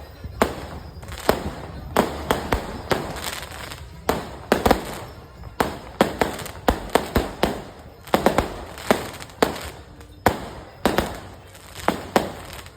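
Fireworks going off: an irregular series of sharp bangs, two or three a second, each trailing off briefly.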